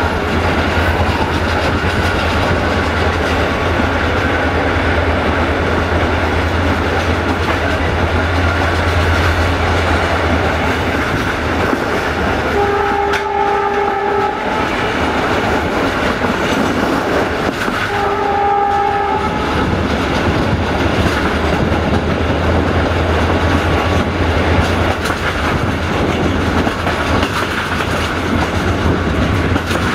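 Diesel-hauled passenger train running: a steady low engine drone under the rumble of the wheels on the rails. Near the middle the locomotive's horn sounds twice, each blast about a second and a half long and about five seconds apart, and the engine drone drops away around them.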